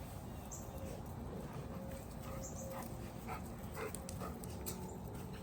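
Dogs at play, one giving a run of short high whines and yips from about two seconds in, over a steady low rumble.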